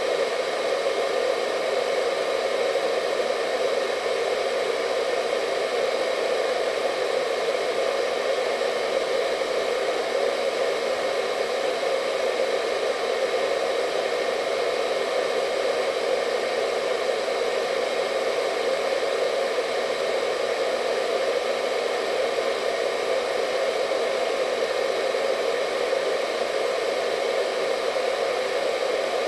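Hair dryer running steadily, a constant whooshing hum strongest in the low-mid range with faint steady whine tones above.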